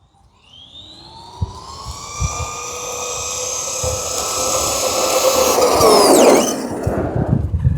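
Electric whine of a Redcat Volcano EPX RC truck's brushed 540 motor and drivetrain on a 3S LiPo at full throttle on a speed run. The pitch climbs quickly, then holds while the sound grows louder, and falls sharply about six seconds in.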